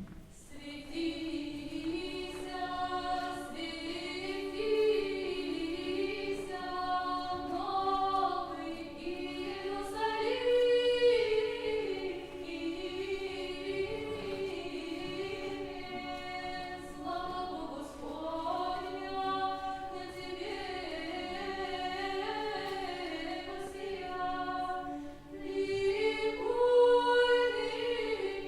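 Choir singing a cappella in the style of early Russian chant: a slow melody moving above one steady, unbroken drone note. The singing begins about half a second in.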